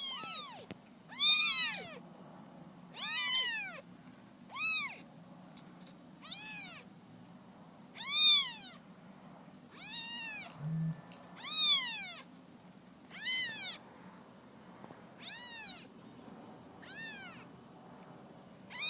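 Young kittens mewing: about a dozen short, high-pitched calls, one every second or two, each rising and then falling in pitch.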